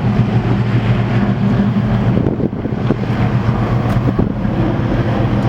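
Lockheed P-38 Lightning's twin Allison V-1710 V-12 engines running with a steady, low drone.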